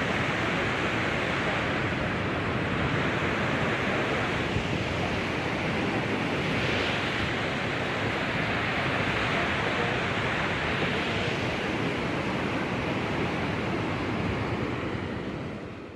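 Heavy rain falling, a steady dense hiss that fades out near the end.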